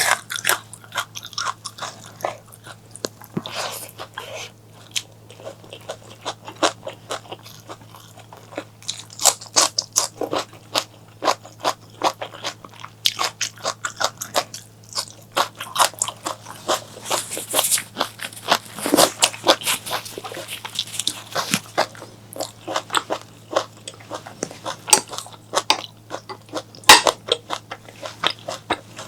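Close-miked eating: a person biting and chewing crunchy food. The crisp crunches come in quick runs and are thickest through the middle of the stretch.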